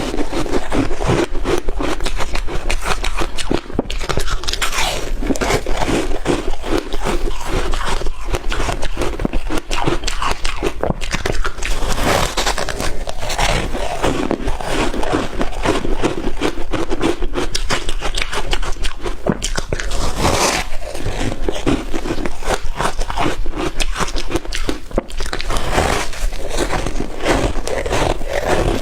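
Shaved ice being bitten and chewed close up, a dense, continuous crunching with crackles and scraping.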